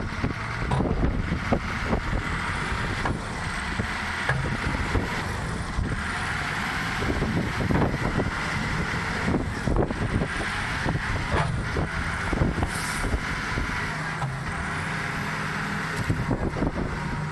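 A heavy truck's engine running, with many short knocks and clatter throughout and a faint high whine that rises and falls.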